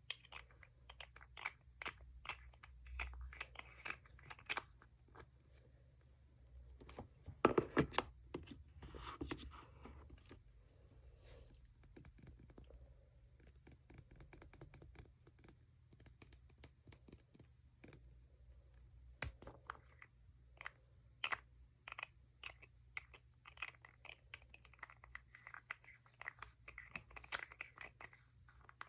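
Close-up ASMR tapping and scratching on makeup packaging: a dense run of quick, sharp taps and scratches, with a louder cluster of taps about a quarter of the way in and a single loud tap past the middle.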